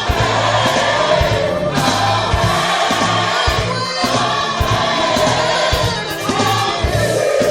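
Gospel choir singing over a full band with a steady drum beat.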